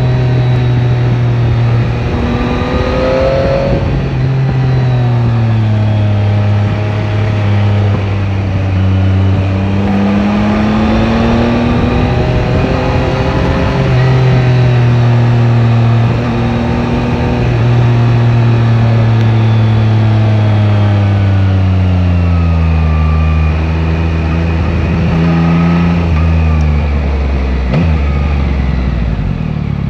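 Yamaha Tracer 9 GT's three-cylinder engine pulling along a twisty road, its revs climbing and falling with several sudden drops and jumps in pitch as the gears change, over a steady rush of wind.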